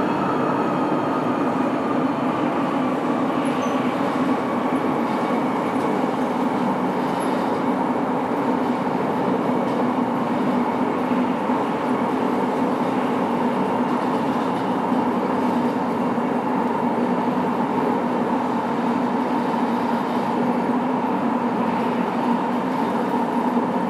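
Sapporo Subway Namboku Line 5000-series rubber-tyred train running steadily through the tunnel between stations, a steady rumble with a constant whine. A fainter tone falls slightly and fades in the first few seconds.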